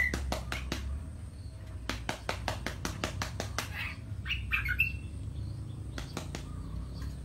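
Runs of sharp, rapid clicks, about five a second, then a few short bird calls about four and a half seconds in.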